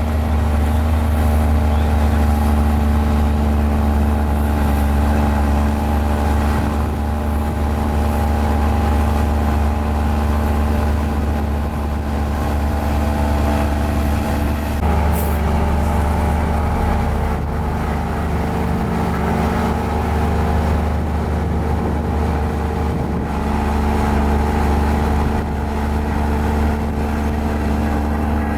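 Mini Komatsu bulldozer's diesel engine running steadily under load, its note shifting about halfway through, with a brief high squeak around the same point.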